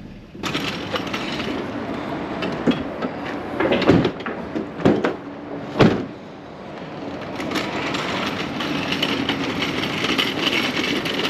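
Steady vehicle running noise that starts abruptly, with three loud knocks or thumps close together around the middle.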